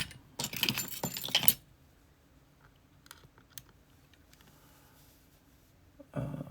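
Small metal lock parts of a gutted Abus C83 padlock rattling and clicking as they are handled, a dense clatter for about a second near the start, then a few faint single clicks.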